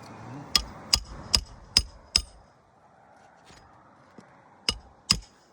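Hand hammer driving roofing nails into an asphalt shingle: five sharp, evenly spaced strikes about two and a half per second, then a pause and two more blows near the end.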